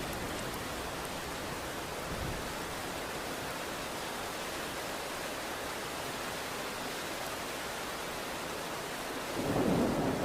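Steady rain falling, an even hiss. About nine seconds in, a low rumble of thunder swells up.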